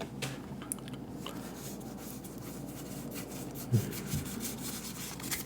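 Trading cards sliding and rubbing against each other as a freshly opened Pokémon booster pack is flipped through in the hands, with faint ticks of card edges and two soft thumps a little under four seconds in.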